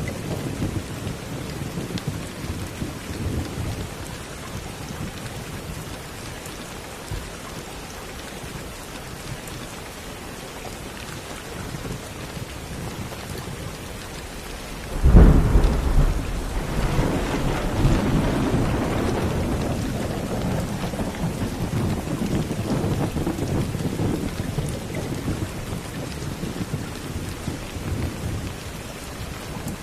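Steady rain with thunder. A low rumble fades over the first few seconds, then a sudden thunderclap about halfway through rolls on for several seconds before dying away under the rain.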